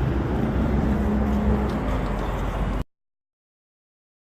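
Street traffic noise, a steady rumble with a brief steady hum in the middle. About three seconds in, the sound cuts off abruptly into dead silence: a dropout in the live stream's audio.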